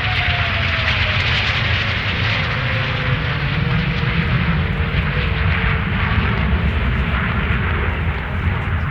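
Jet noise from the Fursan Al Emarat's Hongdu L-15 twin-engine advanced jet trainers flying past in display: a loud, steady roar with a whine that falls in pitch over the first few seconds as the jets go by.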